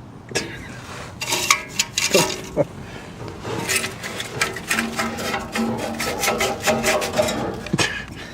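Hand tools working on a car's exhaust: rapid metallic clicks and scraping, in quick runs, densest in the second half.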